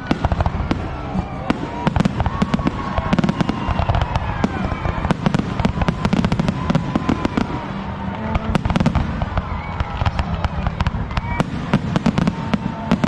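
A fireworks display: a dense, continuous run of sharp bangs and crackles, with deeper booms underneath.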